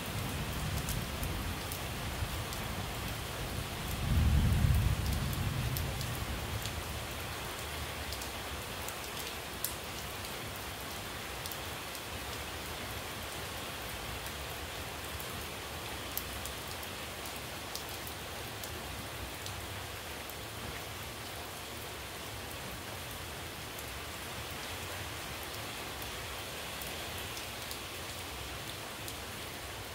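Steady rain falling on puddled ground and leaves, with a low rumble of thunder swelling about four seconds in and dying away over the next few seconds.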